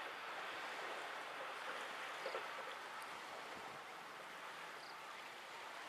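Faint, even running noise of a distant electric passenger train moving away along the track, slowly fading.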